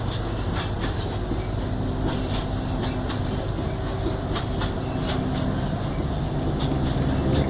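Freight train rolling steadily past, its wagon wheels clicking over the rail joints over a continuous low rumble, with a faint steady whine coming in after a second or so.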